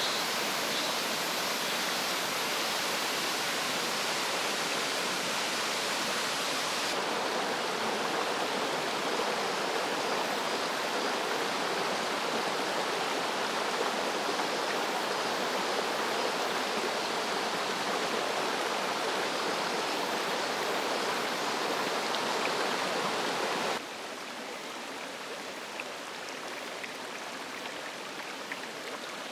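Mountain stream water rushing over rocks, a steady, dense rush that drops suddenly quieter about five seconds before the end.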